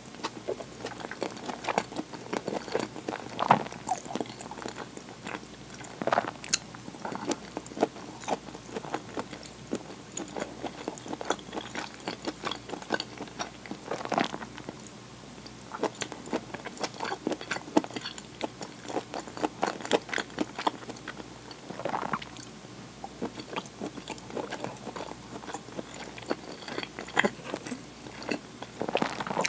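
A person chewing and biting food close to the microphone, with many short, sharp, irregular clicks and crackles from the mouth and food.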